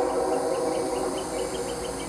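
The tail of a locomotive horn blast fading away, with rapid high chirps of an insect, about five a second, starting just after it.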